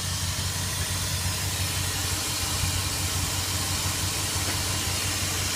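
2002 Dodge Dakota's 4.7-litre V8 idling steadily with its drive belt off, a smooth, even low hum with a steady hiss above it; it sounds good.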